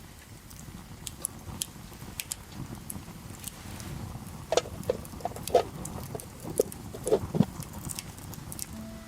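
Wood campfire crackling with scattered sharp pops, then a run of louder short knocks and clatters from about halfway in.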